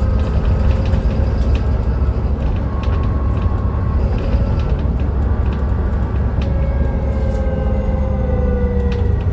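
A Dennis Trident 2 double-decker bus running, heard from on board: a steady low engine rumble with drivetrain whines that slide slowly in pitch, and scattered clicks and rattles.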